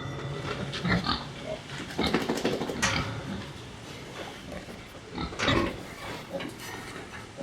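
Short calls from farm animals, loudest at about two to three seconds in and again at about five and a half seconds in.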